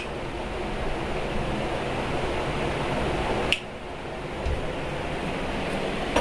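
A room fan running with a steady whir and low hum. There is a sharp click at the very start and another about three and a half seconds in, like a light switch being flicked.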